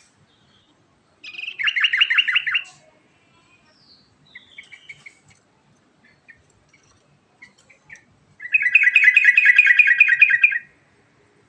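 Yellow-vented bulbul (trucukan) singing: a rapid trilled phrase, a few short scattered chirps, then a longer rapid trill of about two seconds near the end.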